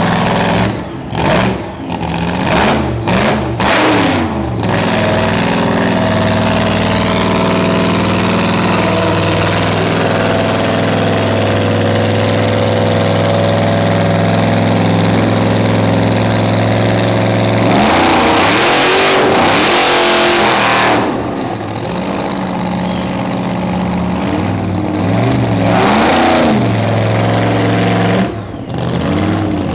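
Drag car's engine idling loud and lumpy at the start line, blipped several times: a quick run of revs in the first few seconds, one longer rev about two-thirds of the way in, and two short blips near the end.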